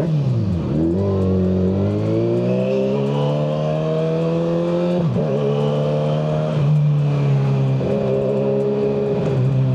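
Kawasaki ZX-6R 636's inline-four engine through a Yoshimura exhaust, heard from the rider's seat under way. The note drops sharply at the start, then climbs steadily under acceleration. About five seconds in it drops abruptly at a gear change, then holds fairly steady with a few brief dips as the throttle comes on and off.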